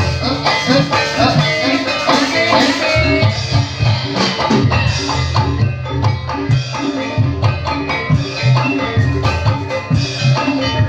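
Live ebeg accompaniment music: struck keyed percussion with drums in a steady, busy rhythm.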